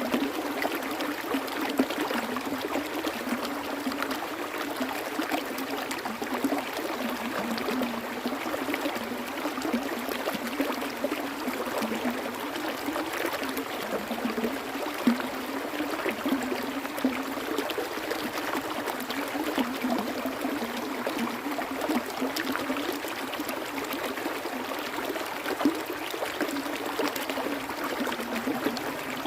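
Water flowing steadily in a stream, a continuous even rush with a few brief louder moments.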